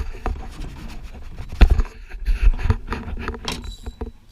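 Knocks and scraping inside a small boat, with several sharp thumps against the hull or gear, the loudest about one and a half seconds in, over a low rumble.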